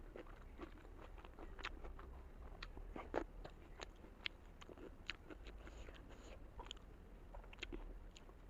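A person chewing and biting into a large momo dumpling, with many short, irregular mouth clicks.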